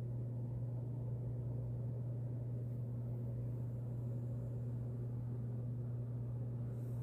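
A steady low hum that does not change, over a faint low rumbling hiss.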